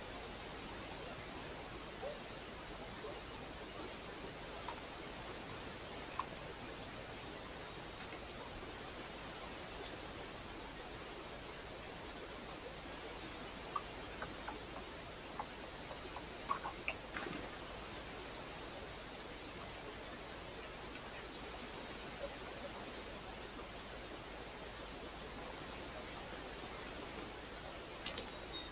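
Steady hiss of a trail camera's microphone with a few faint, scattered clicks and taps, and a sharper double click near the end.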